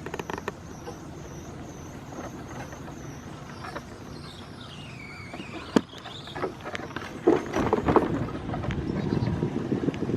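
Power wheelchair driving: a thin motor whine that wavers and dips in pitch midway, over a steady rumble of the wheels on the ground. A sharp click comes just before the middle, and in the last few seconds the rumble grows louder with knocks.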